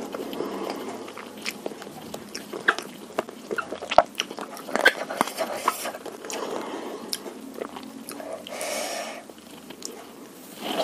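Close-miked chewing of bakso beef meatballs in spicy broth, with scattered wet mouth clicks and a sharper click about four seconds in.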